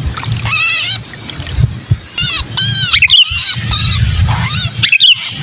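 Sooty-headed bulbul giving harsh, arching distress calls in short bursts, the 'kejepit' call of a bird that has been caught, over a low rumble.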